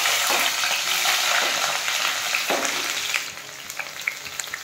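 Chopped onion frying in hot oil in a kadai, stirred with a steel ladle. It starts as a loud, dense sizzle and eases about three seconds in to a quieter frying hiss with scattered crackles and pops.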